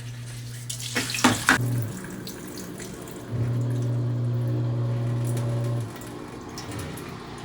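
Panasonic top-loading washing machine agitating a wash load: its motor hums in spells of a few seconds with pauses between, while water and clothes slosh in the drum, with a few sharp splashes about a second in.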